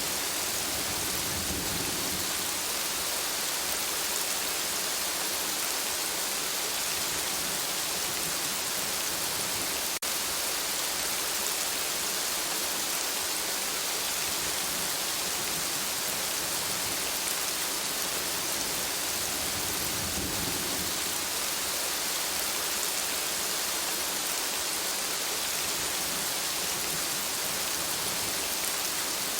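Steady rain, an even hiss of many drops, with a low rumble of thunder twice, near the start and about two-thirds of the way through.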